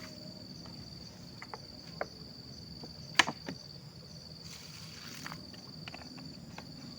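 Steady high-pitched insect drone, typical of crickets, with a few light clicks and knocks from cooking gear being handled; the sharpest knock comes about three seconds in.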